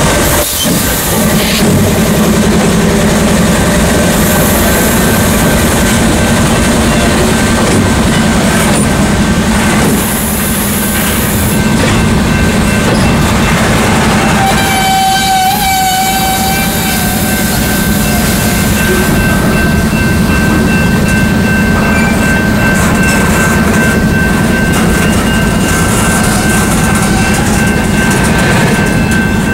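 Train running close by: a steady low engine drone over rolling rail noise. About halfway through a brief tone with several pitches sounds for a second or two, and thin steady high tones carry on after it.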